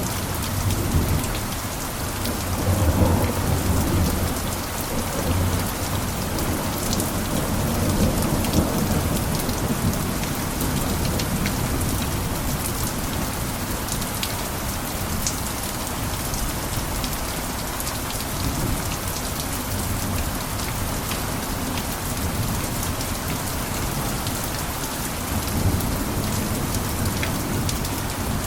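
Heavy rain falling steadily on a roof, dense with fine drop ticks, with a low rolling rumble swelling in over the first few seconds and fading out by about a third of the way in.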